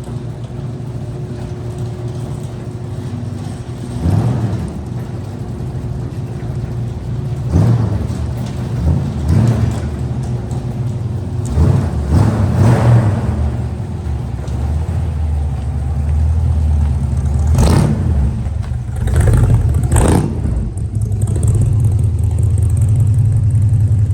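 1969 Ford Bronco's engine running with a steady low rumble, with several brief revs of the throttle as it is driven.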